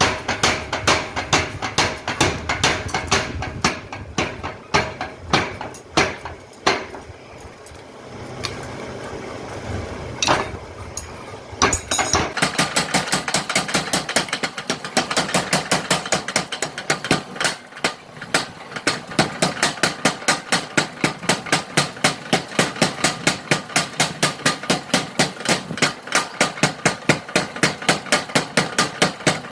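Mechanical power hammer striking hot steel over and over. Strikes are rapid at first, thin out to a few scattered blows between about 6 and 12 seconds in, then settle into a steady fast run of about four blows a second.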